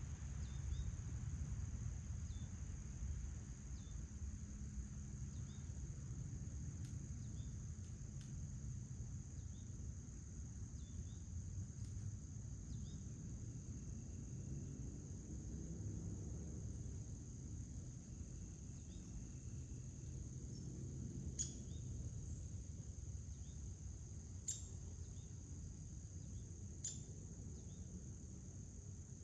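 Insects, crickets by the sound of it, trilling steadily at a high pitch over a low outdoor rumble, with faint short chirps now and then. There are three sharp clicks in the last third.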